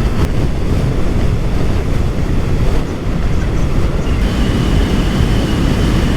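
Wind rushing over the microphone mixed with road and engine noise of a Yamaha MT-03 motorcycle riding at speed, a loud, steady low rumble. A thin, steady high whine comes in about four seconds in.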